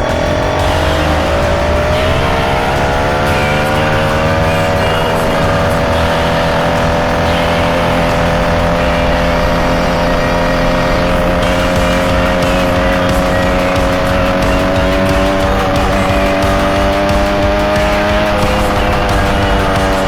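Motorcycle engine running under way, revs rising over the first few seconds and then holding fairly steady.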